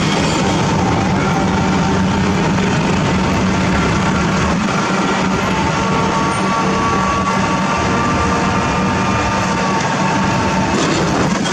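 Heavy diesel construction machinery running steadily, a low engine note with a thin, steady whine over it through the middle.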